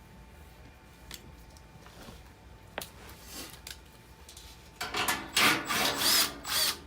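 Metal parts of a furnace blower assembly being handled: a few light clicks, then a louder rasping scrape of metal on metal lasting about two seconds, starting about five seconds in.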